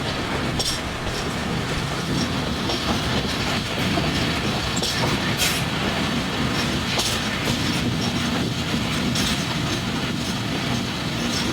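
Passenger train running on the rails: a steady rumble with wheel clickety-clack and a few sharp clicks spread through it.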